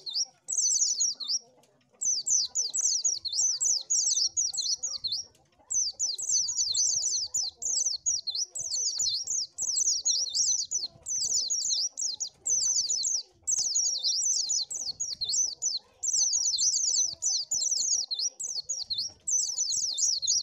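White-eye (pleci) singing: a fast, high-pitched twittering of quick sweeping notes in long runs, broken by short pauses.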